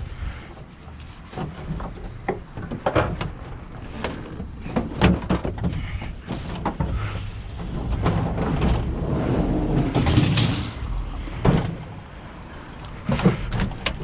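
Clunks, knocks and rattling from a heavy elliptical exercise machine being tipped and moved on its front wheels, with a longer rumbling stretch about two-thirds of the way through.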